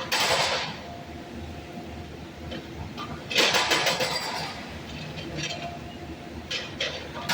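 Sidewalk reconstruction machinery with a steady engine rumble, broken by two loud bursts of harsh noise: one at the start and one, about a second long, around three and a half seconds in.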